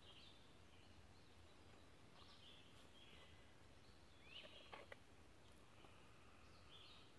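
Near silence with faint bird chirps and short trills, coming every second or so, and a couple of soft clicks a little after the middle.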